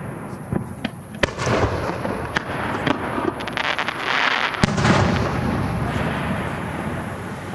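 Aerial fireworks shells bursting: two sharp bangs about three and a half seconds apart, with a run of rapid crackling and a hissing burst between them.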